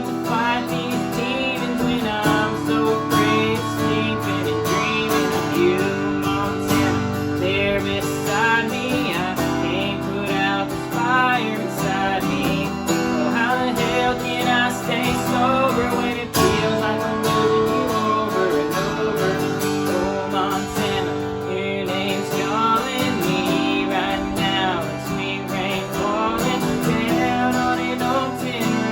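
A country song played on strummed acoustic guitar, with a voice singing over it.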